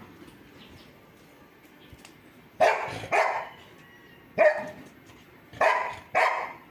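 A dog barking five times: a pair, then a single bark, then another pair, starting about two and a half seconds in.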